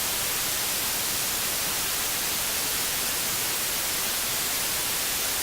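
Loud, steady white-noise static, the hiss of a dead broadcast channel once the transmission has gone off the air, strongest in the high end.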